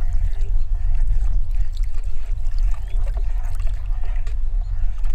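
Tomato sauce being poured and drizzled over chopped vegetables, a soft wet trickle with faint small ticks, under a loud steady low rumble.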